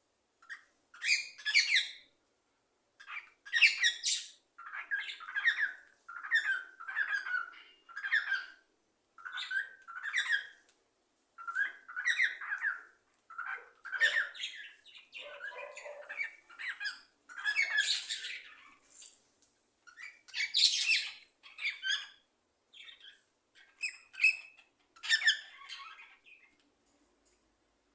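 A pet bird calling over and over, short loud calls about once a second, which stop shortly before the end.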